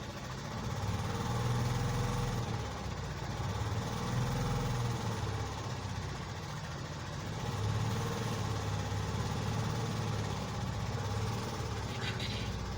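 Boat engine running steadily with a low hum that swells and eases slightly.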